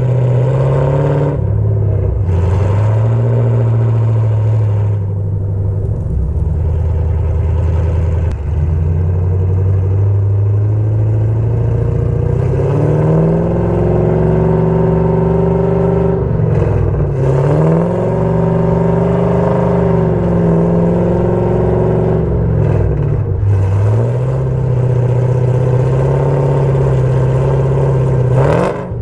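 Chevrolet Camaro engine running through an aftermarket XS Power full exhaust, from the headers back. The exhaust note is loud and holds steady for stretches, then its pitch dips and climbs again several times, most clearly in the second half.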